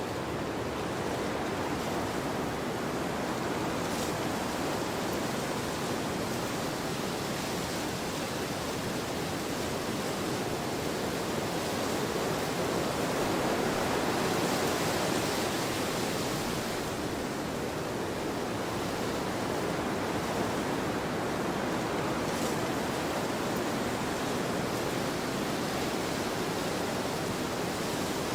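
Wind blowing across an open field, a steady rushing noise that swells a little about halfway through.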